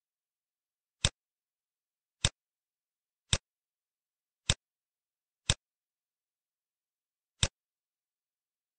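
Six single computer mouse clicks, sharp and short, about a second apart with a longer gap before the last.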